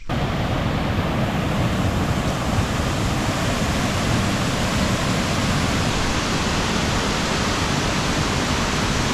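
Josephine Falls' water rushing down over rock: a steady, even noise with no let-up.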